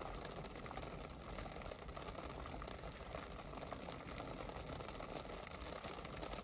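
Steady rain falling, an even hiss of many small drops ticking on hard surfaces.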